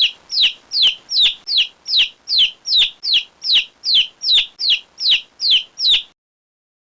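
A bird calling in a rapid even series of about sixteen short high chirps, each falling in pitch, stopping about six seconds in.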